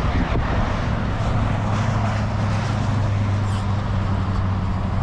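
A vehicle's engine runs steadily with a low hum, under a constant rushing noise.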